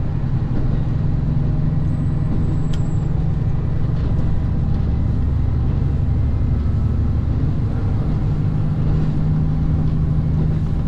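Diesel railcar engine running steadily, a low even hum.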